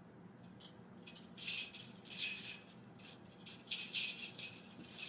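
Jingle bells shaken in irregular bursts, starting about a second in.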